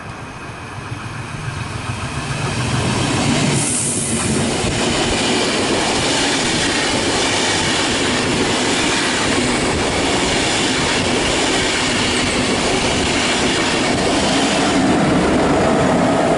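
A train passes close by at speed on the line through the station. Its noise builds over the first few seconds, holds loud and steady, then falls away at the very end. There is a brief high hiss about four seconds in.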